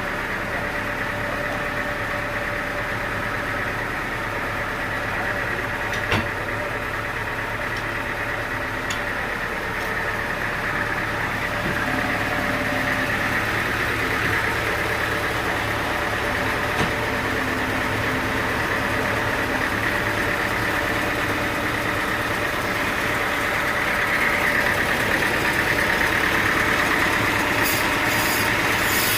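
Sawmill machinery running steadily with a constant hum and a whine, which grows a little louder in the last few seconds. There is a sharp knock about six seconds in and a fainter one partway through.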